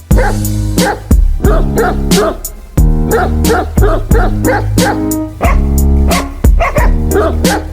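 A dog barking over loud background music, with short calls coming again and again every fraction of a second.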